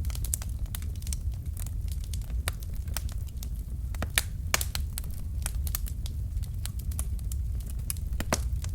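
Wood fire burning in a fireplace: logs crackling with frequent irregular sharp pops over a steady low rumble of the flames.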